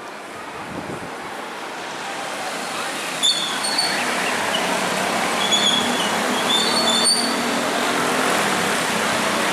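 Steady hiss of road traffic on a rainy street, growing louder over the first few seconds and then holding, with short high chirps scattered through.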